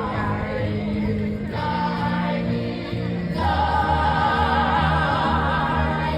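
Pirate song with backing music, its voices holding long sung notes; the sound grows fuller about three and a half seconds in.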